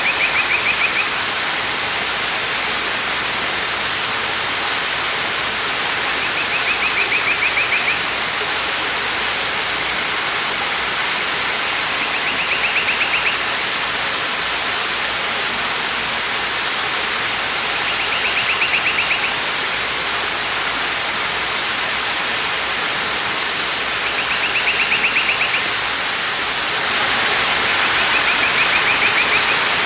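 Waterfall rushing steadily. A short, high, rapid trill lasting about a second recurs about every six seconds over it.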